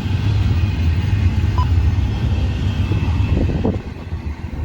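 Norfolk Southern intermodal freight train rolling slowly past, its cars giving a steady rumble. Wind buffets the phone's microphone with a loud low rumble that eases slightly near the end.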